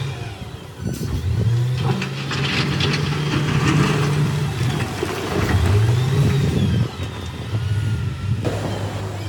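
Heavy earthmoving machinery's diesel engine running and revving up and down, with clattering about two to four seconds in.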